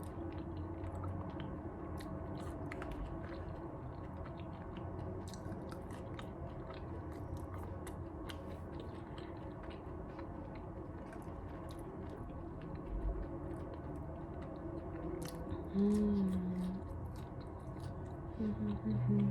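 Close-miked eating: wet chewing with scattered small crunches and clicks of food being chewed, with a short hummed voice sound about sixteen seconds in and again near the end.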